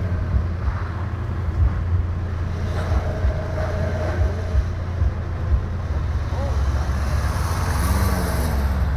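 Car engine revving as a hatchback drifts on snow, with a steady low rumble throughout. Its pitch rises and falls in swells over the last few seconds as the car comes close.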